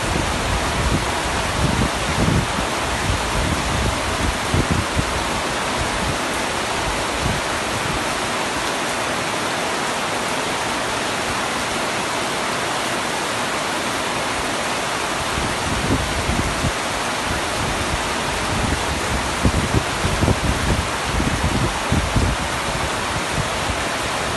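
Heavy rain falling steadily as a dense, even hiss, with uneven low rumbling in the first few seconds and again through the second half.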